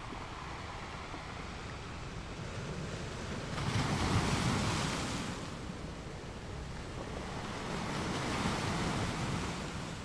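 Ocean waves crashing on rocks: a steady wash of surf that swells into a loud crash about four seconds in and a smaller one near the end.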